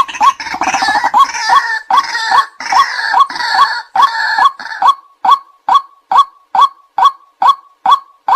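White-breasted waterhen calling: a short, hooked "kwak" note repeated about twice a second. For the first five seconds a rough, overlapping chorus of harsher calls runs on top of it, then stops, leaving only the steady repeated note.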